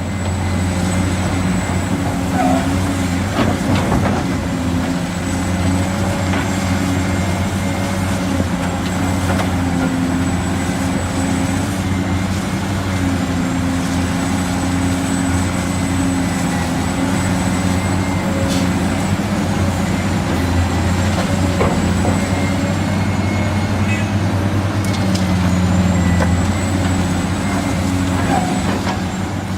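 Steady truck engine sound: a low, even drone with a thin high whine above it and a few faint clicks.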